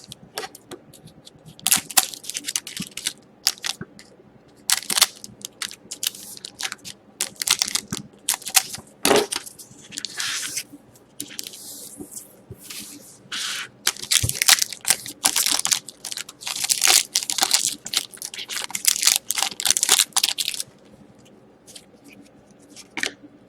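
Plastic foil trading-card pack wrappers crinkling and tearing as packs and cards are handled, heard as a long run of short crackly rustles. It goes quiet near the end.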